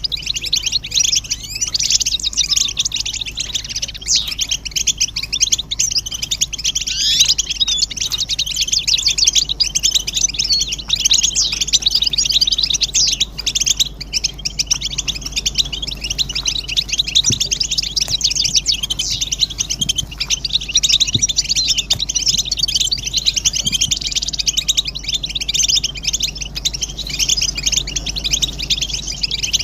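A chorus of many European goldfinches twittering and singing at once: a dense, unbroken stream of rapid high chirps and trills.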